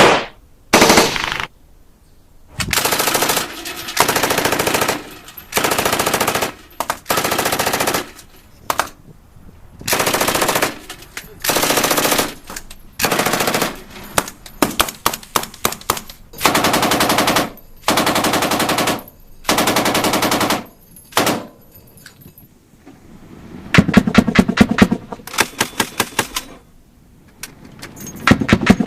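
Automatic gunfire in repeated bursts, each about a second long, with short gaps between them. Near the end comes a quick string of separate single shots.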